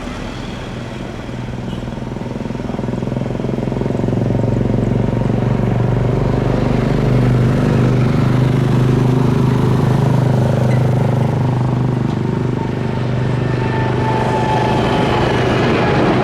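Jet airliner engines at takeoff power: a loud, steady, rumbling noise that swells over the first few seconds and then holds, with a faint high whine that slides slightly lower near the end.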